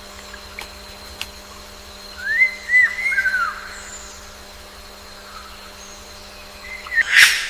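A bird calls with a quick run of short, arching whistled notes, then gives a louder, harsher note near the end.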